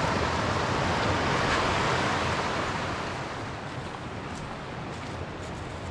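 Mountain creek water rushing over rocks, a steady hiss that eases off somewhat about three seconds in.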